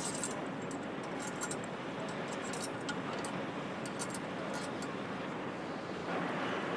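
Steady machinery noise of an engine factory floor, with frequent light metallic clicks and ticks scattered through it; the noise gets a little louder about six seconds in.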